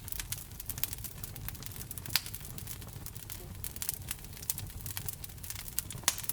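Fire burning in a fireplace: frequent sharp crackles and pops over a low steady rumble of the flames, with two louder pops, one about two seconds in and one near the end.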